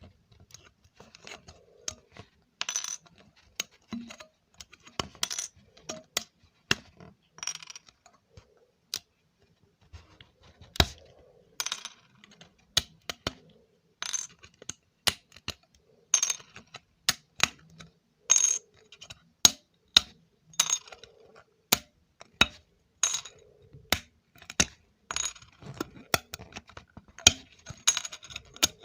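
ASMR trigger sounds: irregular sharp taps and clicks on small hard objects, a few louder ones with a bright, clinking ring.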